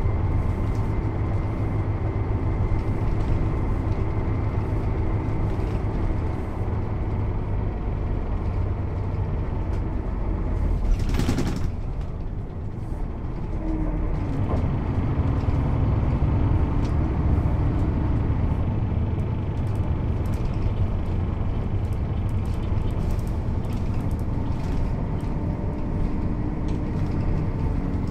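Mercedes-Benz O 407 bus's diesel engine running under way, heard on board, with a short hiss of compressed air about eleven seconds in; shortly after, the engine note climbs as the bus pulls away or accelerates.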